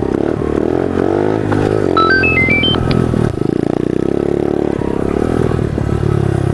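Pit bike's small single-cylinder engine running under changing throttle, its pitch rising and falling as it speeds up and eases off. About two seconds in, a quick run of high, stepped notes like a short melody sounds over it.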